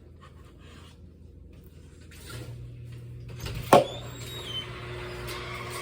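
A single sharp knock about two-thirds of the way in, over a low steady hum that sets in about two seconds in.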